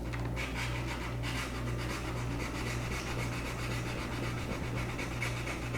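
Sandpaper rubbed back and forth by hand over a plastic motorcycle helmet shell, a steady scratchy rubbing that scuffs the surface, over a constant low electrical hum.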